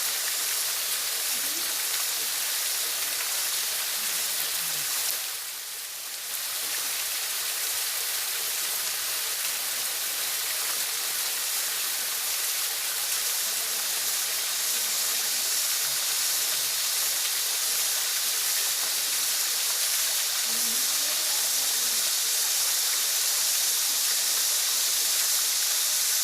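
Waterfall: a steady, hissing rush of falling water that dips briefly about five seconds in.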